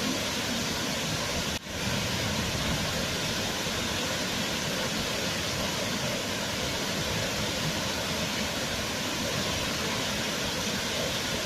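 Waterfall: water falling in a steady, even rush, with a momentary dip in level about a second and a half in.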